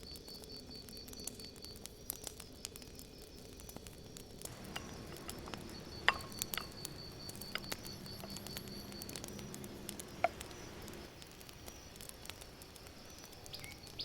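Crackling of a wood campfire, with small irregular pops, over an insect chirping in a steady high pulsing trill. Two sharper clinks stand out, about six and ten seconds in.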